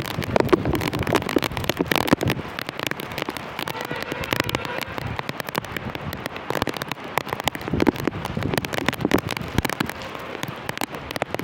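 Heavy monsoon rain, with large drops landing close by in dense, irregular taps over a steady hiss of rainfall.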